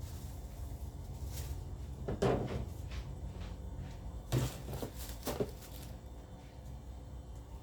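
Household items being handled: a few knocks and clacks, one about two seconds in and a cluster from about four to five and a half seconds, over a low steady hum.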